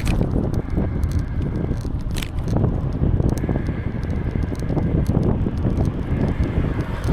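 Wind rumbling on the microphone of a moving bicycle, with tyre noise and small scattered clicks and rattles from the bike, one a little louder about two seconds in.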